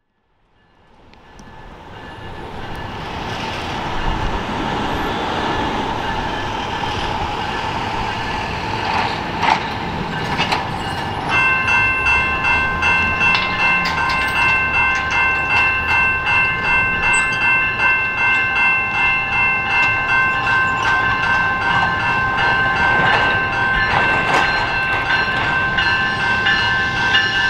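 Commuter train approaching, its rumble building up out of silence over the first few seconds. About eleven seconds in, a ringing warning bell starts, sounding about twice a second over the train noise.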